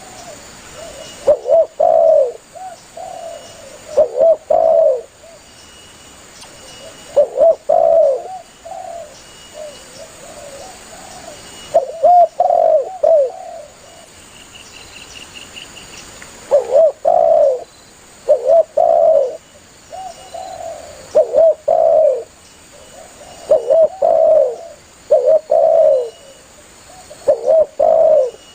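Spotted dove (tekukur) cooing: loud, repeated multi-note coo phrases every two to four seconds. This is the dove's call to others of its kind, as used in playback to lure doves. A brief faint high trill from another small bird comes about halfway through.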